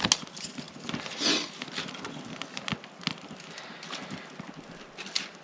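Wood crackling and popping in a campfire: irregular sharp clicks, with a brief soft hiss about a second in.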